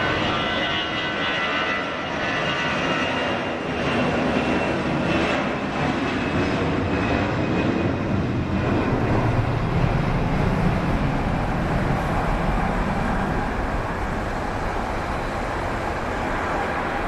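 Jet airliner engines passing: a high whine that fades over the first few seconds, then a low rumble that swells near the middle and eases off.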